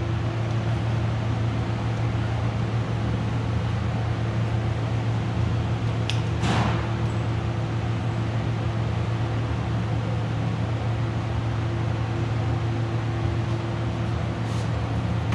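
Steady mechanical hum with a constant low drone, like a fan or ventilation unit running, with one brief faint swish about six seconds in.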